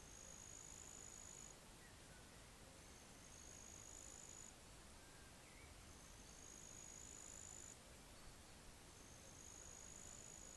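Faint insect trilling: four very high, buzzy calls about a second and a half long, each rising slightly in pitch, repeating roughly every three seconds over a quiet outdoor background.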